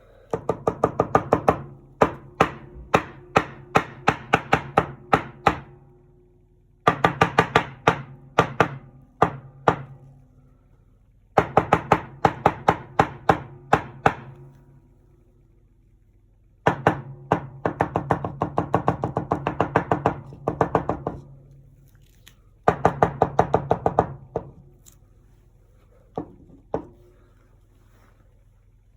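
Paintbrush dabbing repeatedly on a stretched canvas: bursts of rapid taps, several a second, each with a low drum-like ring from the canvas. The bursts come in runs of a few seconds with short pauses between them, and two single taps come near the end.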